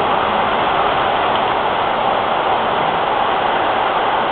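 Heavy rain pouring steadily in a thunderstorm downpour, an even hiss with no thunder claps.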